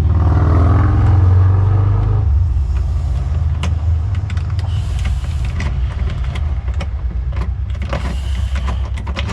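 Electric heat gun running with a steady low drone while heat-shrink tubing is shrunk over a wire join, with scattered small clicks of handling.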